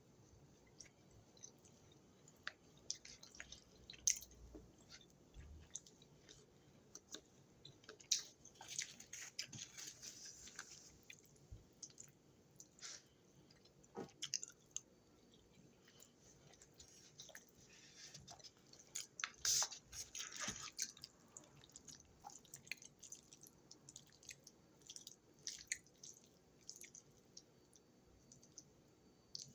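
A person chewing food close to the microphone: irregular soft mouth clicks and crunches, busiest about nine seconds in and again about twenty seconds in.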